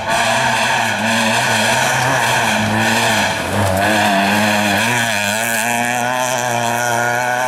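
Rally car engine running hard at high revs, its pitch wavering up and down with throttle and gear changes, with a short drop about three and a half seconds in before it picks up again.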